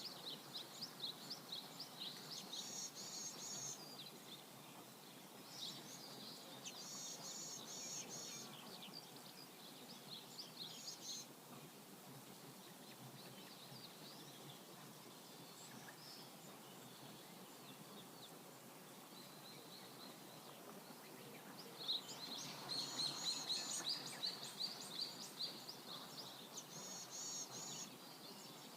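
Songbirds chirping in quick repeated phrases over a faint, steady rush of flowing river water. The birds thin out in the middle and pick up again, loudest, near the end.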